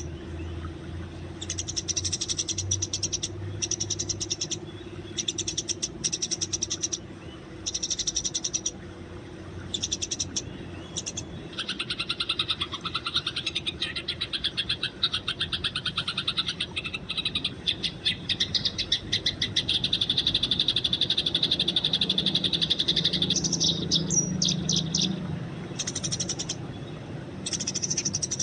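Eurasian tree sparrows chirping in rapid, high-pitched bursts of about a second each. About twelve seconds in, the chirps merge into a long continuous chatter, which breaks back into short bursts near the end.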